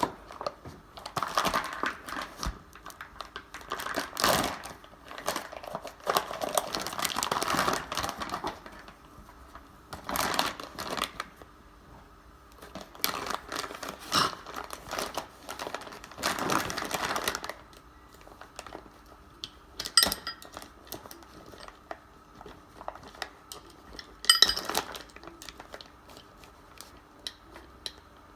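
Irregular rustling and scraping in short bursts, with a few sharp clicks near the end.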